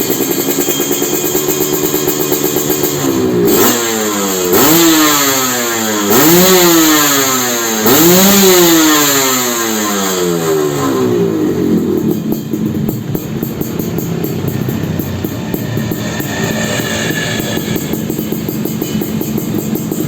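Suzuki Satria two-stroke engine breathing through a BRAT stainless expansion-chamber exhaust, idling, then blipped about four times: each rev rises sharply and falls back to idle. From about 12 s in it settles back to a steady idle.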